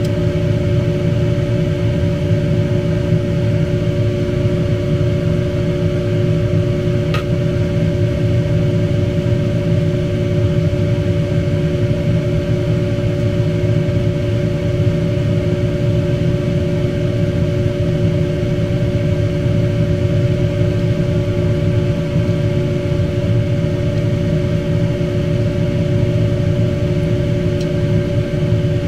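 Steady mechanical hum with a low rumble and a few constant tones, unchanging throughout; a faint single click about seven seconds in.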